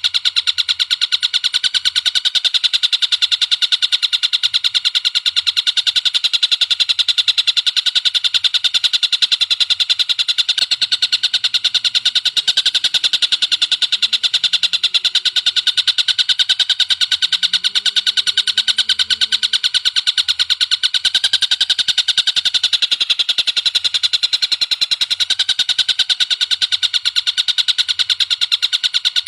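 A bird calling in a fast, unbroken run of short high notes, many to the second, steady and loud throughout.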